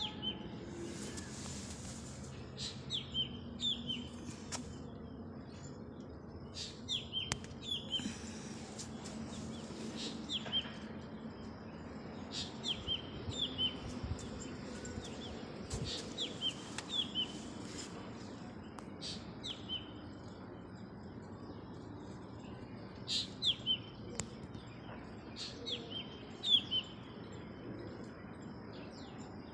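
Small bird chirping in short phrases of two or three quick, downward-sliding high notes, repeated about every three seconds over a faint low background hum.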